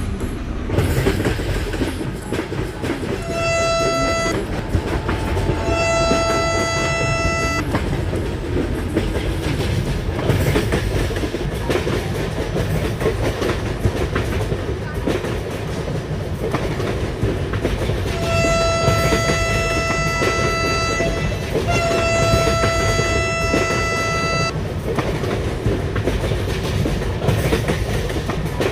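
Vande Bharat Express train running on the track with a steady rumble and wheel clatter. Its horn sounds four blasts in two pairs: a short blast then a longer one a few seconds in, and two long blasts later on.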